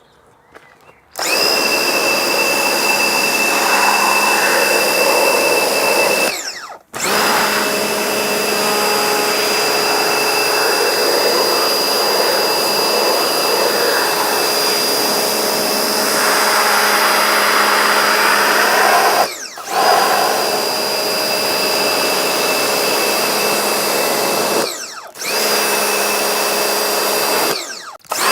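Electric pressure washer running and spraying, its motor and pump whining steadily. The motor winds down and starts again four times, briefly each time, as the trigger is let go and squeezed again.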